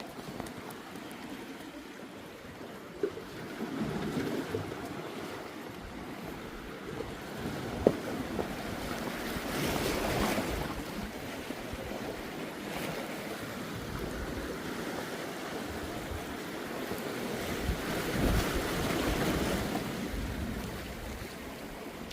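Sea waves washing in against shore rocks, swelling three times, with wind buffeting the microphone.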